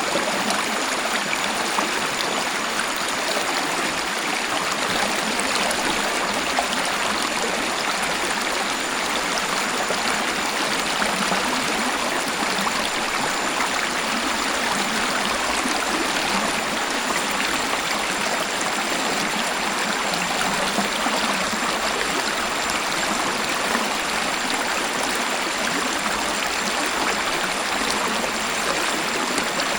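Waterfall: an even, steady rush of falling and flowing water with no breaks.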